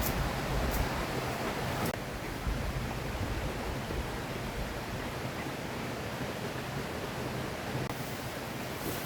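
River water running steadily, an even rushing noise, with two light ticks in the first two seconds.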